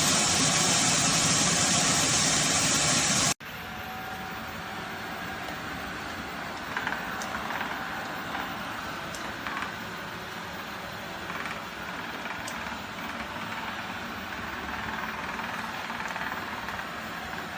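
eufy L60 robot vacuum running: a loud, steady suction whoosh with a held whine, then a sudden drop to a quieter steady hum with a few light ticks and knocks.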